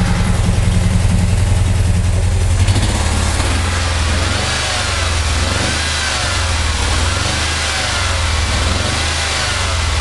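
Freshly rebuilt VW T25 Wasserboxer water-cooled flat-four engine running steadily after its rebuild with new piston rings and lapped valves. About three seconds in the sound changes, and a faint whine then rises and falls several times.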